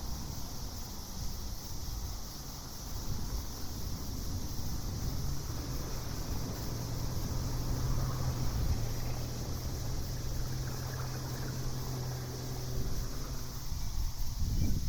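Outdoor night ambience with a low wind-like rumble and a steady high hiss. A low, steady hum joins about five seconds in and fades out a couple of seconds before the end.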